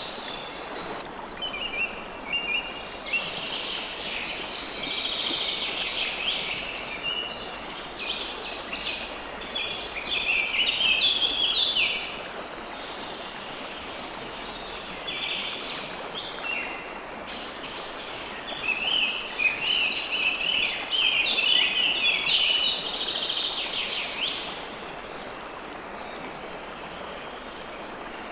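A river flowing steadily, with birds chirping and singing over it in two long busy bouts and fewer calls in between.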